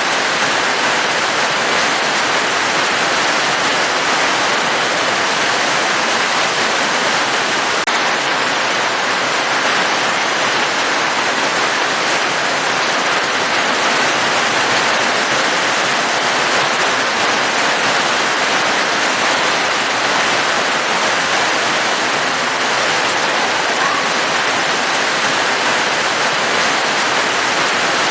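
Steady rain falling, a dense, even hiss of water with no single drops or gusts standing out.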